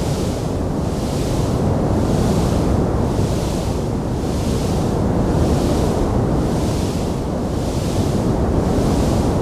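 Steady rushing noise: a low rumble under a hiss that swells and fades at a regular pace, about once every second and a quarter, with no distinct crackles or pops.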